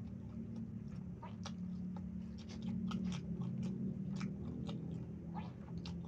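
A person chewing a mouthful of yellow rice close to the microphone, with many short, irregular mouth clicks. A steady low hum runs underneath.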